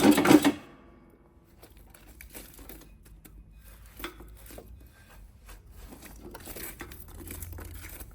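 Handling noise from clearing out a fireplace: a loud rustling scrape in the first half-second, then quieter scattered crinkling, scraping and small knocks.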